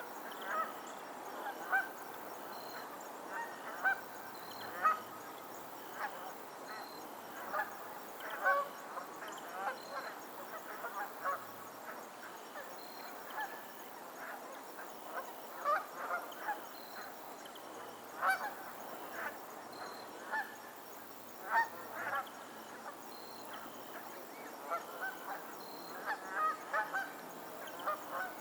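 Geese honking on and off, many short calls scattered irregularly throughout over a steady background hiss.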